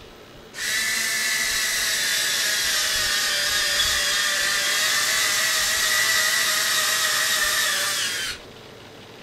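Small electric motor running steadily with a high whine, starting sharply about half a second in and cutting off about eight seconds in.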